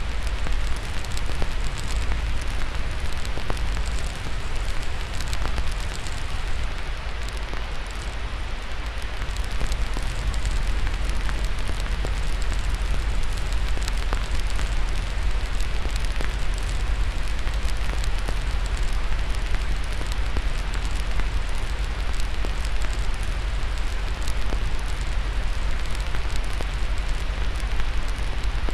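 Steady white-noise hiss with a low rumble beneath, overlaid with frequent small crackles and pops of a burning wood fire.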